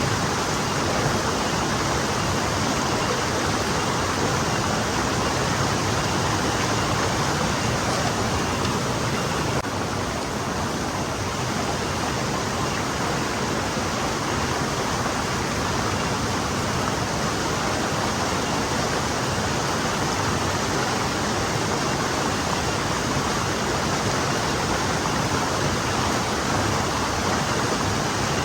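Forest stream flowing over stones: a steady, even rush of water with no pauses or changes.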